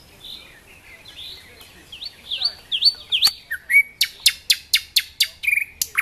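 Small songbird singing in the trees: a few high notes that dip and rise, then a fast run of loud, sharp chips, about four a second, from about halfway through.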